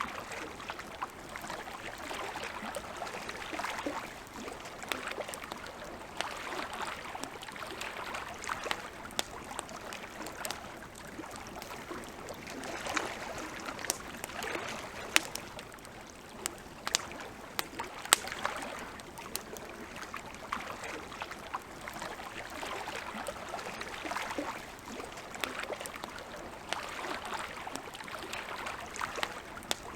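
Campfire crackling with scattered sharp pops, a few louder ones in the middle, over small waves lapping at the lake shore in gentle swells every couple of seconds.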